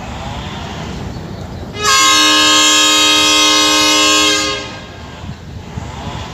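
Train horn sounding one long blast of nearly three seconds, a chord of several steady tones, starting about two seconds in, over a steady background rumble.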